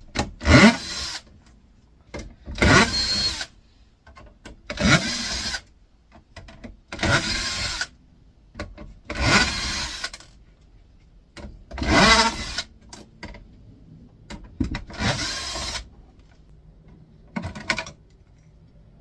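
Cordless drill-driver run in short bursts, about eight times, each spinning up briefly and stopping, backing out the screws that hold the air fryer's door.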